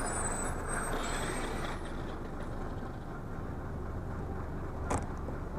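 Motor vehicle noise: a steady low engine drone with road hiss, easing slightly, and one short sharp click about five seconds in.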